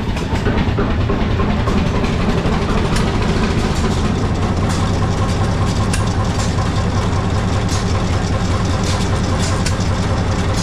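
An antique engine running steadily and loudly.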